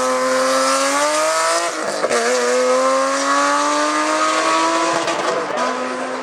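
A hillclimb race car's engine accelerating hard: the pitch climbs, drops sharply at a gear change about two seconds in, climbs again, then drops and holds steady a little after five seconds as the driver shifts or lifts off.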